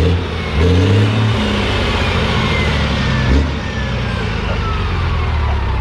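Straight-piped Detroit Diesel Series 60 inline-six turbodiesel in a Newell motorhome being revved: two quick blips in the first second and a half, then a shorter one a little after three seconds, with loud idling in between. A faint whistle falls slowly in pitch through the middle.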